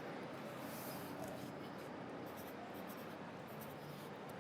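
Pencil writing on paper: short, irregular scratching strokes over a steady background hum of city traffic.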